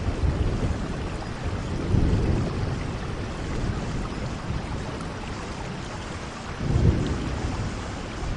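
Steady rainfall, an even hiss of falling rain, with low rumbling swells about two seconds in and again near the end.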